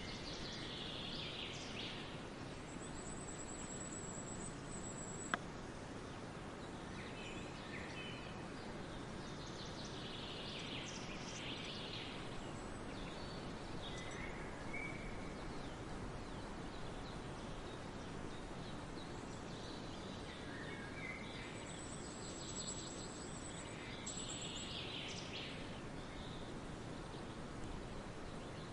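Forest ambience: a steady background hiss with bird calls coming in bursts every several seconds, and a thin, very high trill twice. A single sharp click about five seconds in.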